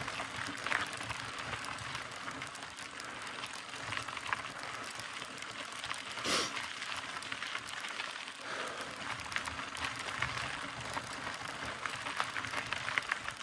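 Mountain bike tyres rolling over a loose dirt trail: a steady crackling hiss full of small clicks and pops, with one brief louder rush about six seconds in.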